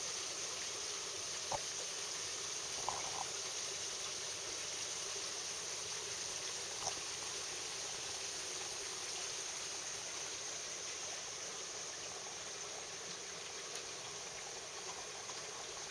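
Steady rushing hiss of waterfall water, with a few faint clicks.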